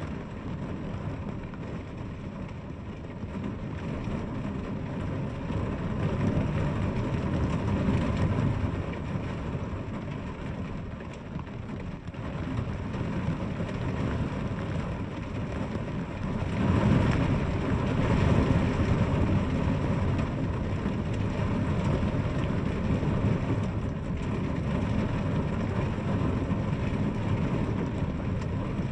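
Steady rainfall, a dense even hiss with a deep low rumble in it, swelling louder twice, most strongly about two-thirds of the way through.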